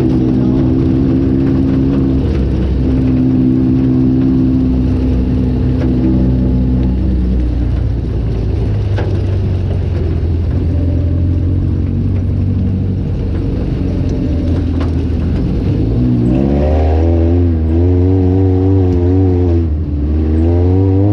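Off-road vehicle engine running steadily, then revving up and down repeatedly over the last few seconds.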